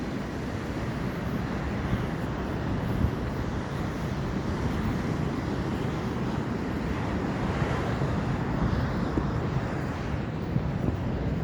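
Steady outdoor rumble and hiss, heaviest at the low end, with a few faint knocks.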